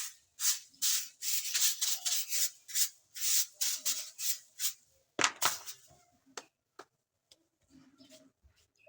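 Repeated rubbing strokes, about two or three a second, for the first five seconds or so, then a few faint knocks and clicks.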